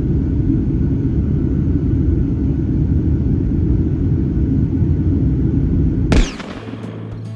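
Steady low rumble of an airliner cabin in flight, the drone of the jet engines and airflow. It cuts off abruptly about six seconds in.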